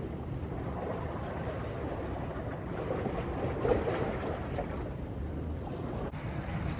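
Wind rumbling on the microphone over rough, fast-running sea water and surf. There is an abrupt change in the noise about six seconds in.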